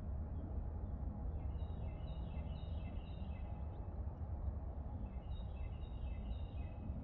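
A songbird singing two short phrases of quick, stepped high notes, about a second and a half in and again about five seconds in, over a steady low outdoor rumble.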